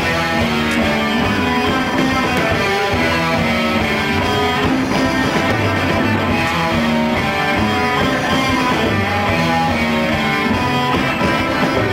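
Live rock band playing an instrumental passage of a song, with guitars to the fore over bass and drums.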